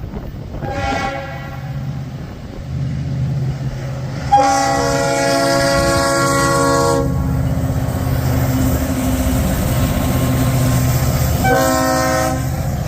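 Norfolk Southern freight locomotive's air horn sounding: a short blast about a second in, a long blast from about four and a half to seven seconds, and another short blast near the end. Beneath it the train's steady low rumble gets louder about four seconds in as it draws near.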